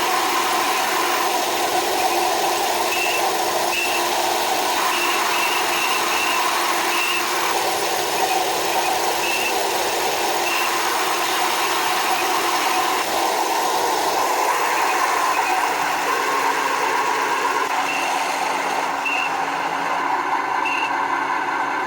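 A 1/16 RC tank's sound unit plays a simulated tank engine running steadily through its small speaker. Short high pips come at irregular intervals, and the engine note drops slightly about two-thirds of the way through.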